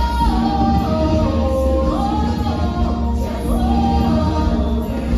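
Song from a stage musical: voices singing held, gliding notes with choir-like backing over instrumental accompaniment and a steady bass.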